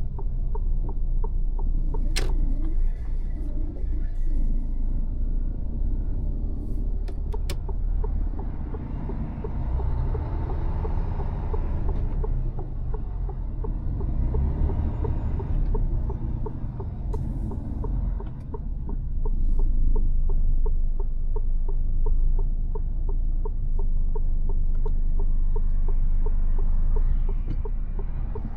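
Mercedes-Benz Actros truck on the move: a steady diesel engine and road rumble, with a few sharp clicks in the first eight seconds.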